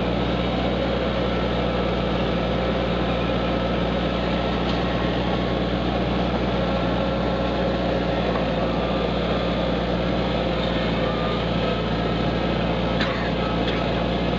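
Kubota tractor's engine running steadily under way, a constant low hum with no change in speed.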